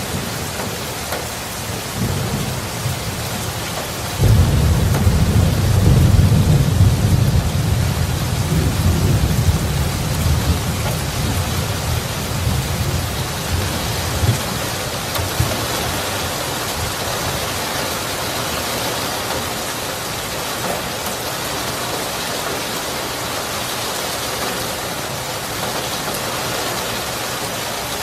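Steady heavy rain with a roll of thunder: a low rumble rises about two seconds in, breaks in loudly about four seconds in, then slowly dies away over the next ten seconds or so while the rain goes on.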